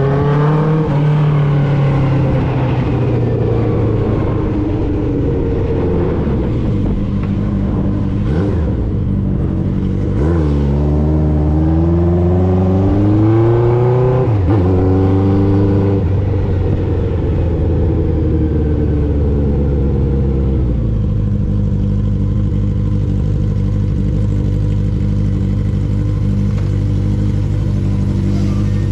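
1995 Honda CB750 Nighthawk's air-cooled inline-four running through a Vance and Hines 4-into-1 exhaust while riding. The revs fall at first, then climb twice with an upshift between the climbs, and the engine holds a steady note after the second shift.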